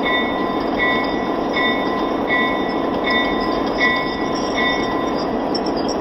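American Flyer model passenger train running on its track with a steady rolling rumble. Over it, a grade-crossing signal bell dings at an even pace, a little more than once a second, and stops about four and a half seconds in.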